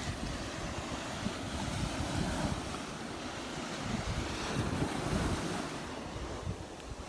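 Surf washing onto a beach, with wind buffeting the microphone in uneven low gusts.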